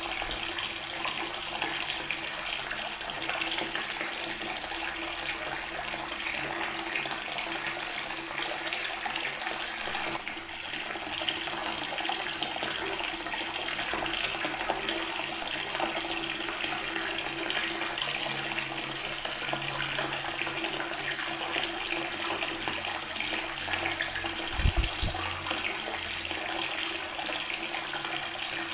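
Water tap running steadily, its stream splashing onto natural stone. A brief low thump comes near the end.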